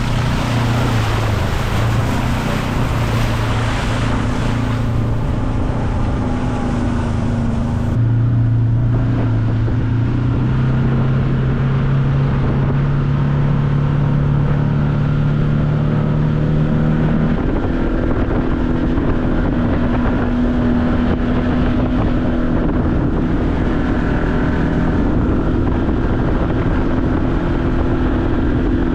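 Side-by-side UTV engine running steadily as it drives. Its pitch creeps upward and then steps up about two-thirds of the way through. A hiss lies over the first few seconds.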